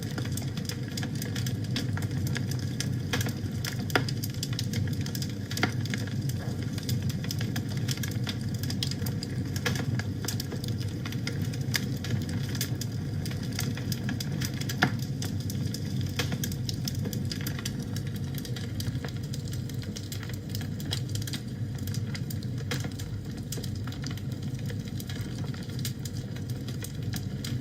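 Wood fire burning in a fireplace: a steady low rumble with frequent small crackles and a few louder pops.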